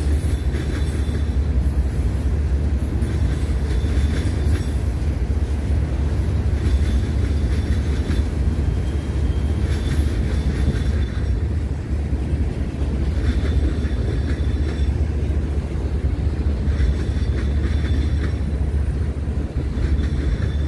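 Railroad cars of a passing train rolling by: a steady deep rumble, with brief higher-pitched wheel noise every few seconds.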